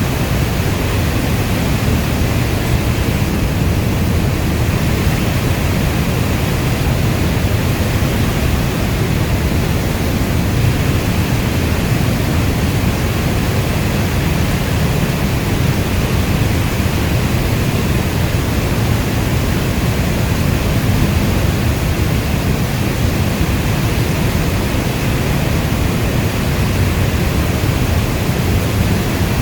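Steady, heavy rainfall: an even, dense rushing noise with most of its weight low down. No single drops, thunder or breaks stand out.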